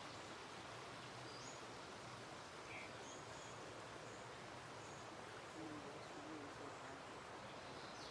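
Faint outdoor ambience: a steady background hiss with a few short, faint high bird chirps scattered through it, and a faint low wavering call in the second half.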